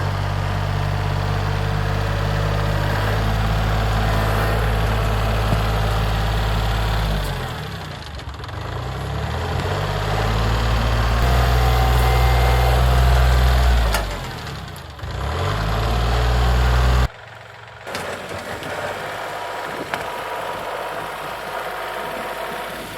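Kubota L3902 tractor's three-cylinder diesel engine running hard while its grapple loader works a tree and stump; the engine note sags and recovers twice. About three-quarters of the way through it drops suddenly to a quieter, steadier running sound.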